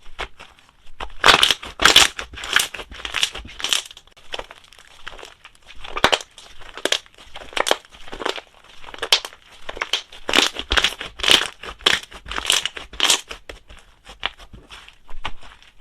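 Slime being kneaded and mixed by hand: sticky crackling squishes in irregular bursts, about one every half second, with a short lull about four seconds in.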